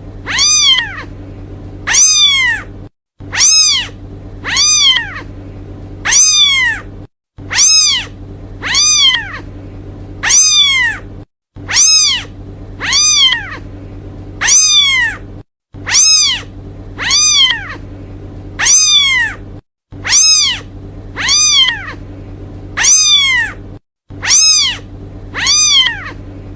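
Kitten meowing over and over, calling for its mother: short high-pitched mews that rise and then fall in pitch, about one a second, over a faint steady low hum.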